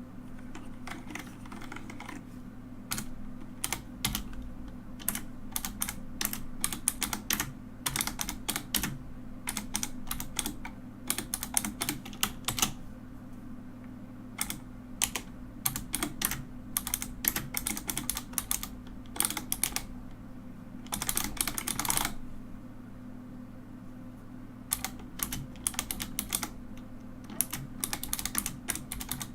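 Mechanical keyboard being typed on: bursts of quick key clicks and clacks with short pauses between them, and a fast dense run of keystrokes near the end.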